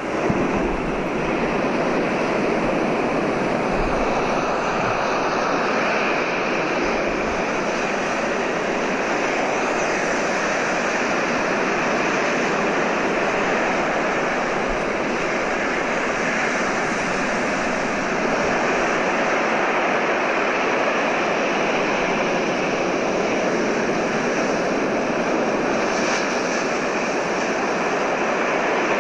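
Recorded ocean surf: a steady, continuous rushing wash without distinct separate wave breaks.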